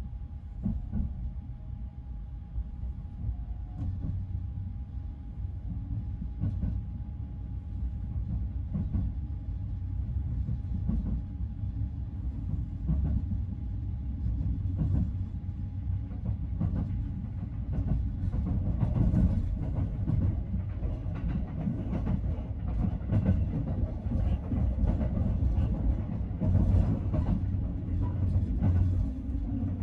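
Sunrise Express sleeper train, a 285 series electric multiple unit, pulling out of a station and gathering speed, heard from inside a sleeper compartment. A low rumble grows steadily louder, with the wheels clicking over rail joints, and a faint steady tone fades out about two-thirds of the way through.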